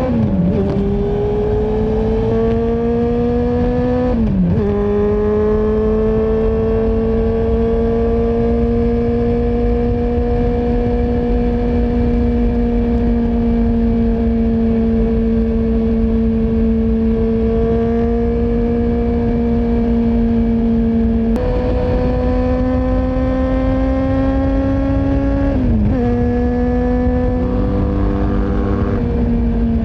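Honda CB400SF inline-four running through a Yoshimura full exhaust system while riding. Its pitch climbs and drops sharply with upshifts twice in the first few seconds, then holds steady at cruise for a long stretch. It jumps up about two-thirds of the way through, then drops again with another shift, with steady wind rumble underneath.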